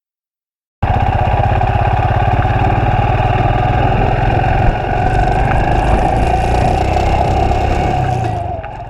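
Royal Enfield Himalayan's single-cylinder engine running steadily while riding, cutting in abruptly about a second in and easing off near the end.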